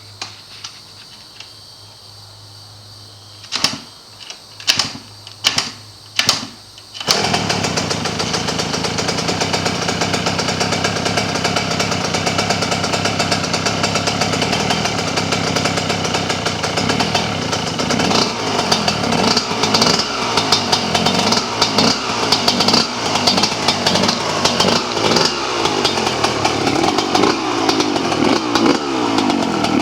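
Freshly rebuilt 2005 Yamaha YZ125 two-stroke engine being started for the first time: four short bursts, then it catches about seven seconds in and keeps running with a rapid, raspy firing note, its pitch rising and falling with the throttle in the second half.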